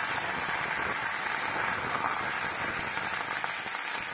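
Boiled potato chunks frying in hot ghee with cumin seeds in a kadai: a steady, crackling sizzle.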